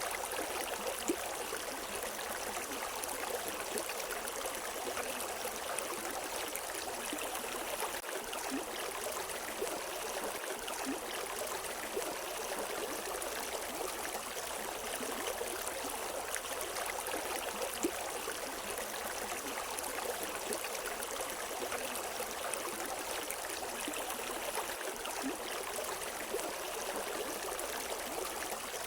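River water flowing steadily over rocks, an even rushing and babbling with no birds.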